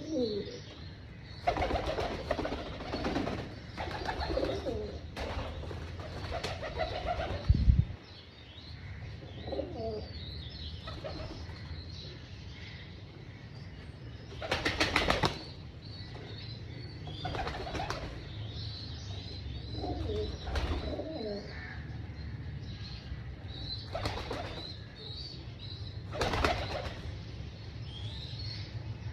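Domestic pigeons cooing, with several brief bursts of wing flapping and one loud low thump about eight seconds in.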